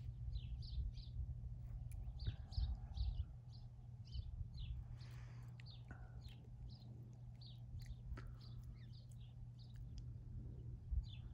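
Small birds chirping: short, high chirps repeating a few times a second, over a low steady hum.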